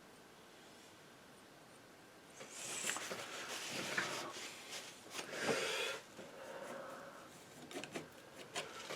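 Scraping and rubbing with a few sharp knocks, starting about two and a half seconds in and easing after about six seconds, then a few lighter clicks near the end.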